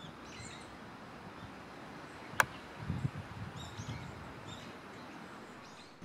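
Faint, short high bird chirps, heard several times, with one sharp click about two and a half seconds in and some low rumbling just after it.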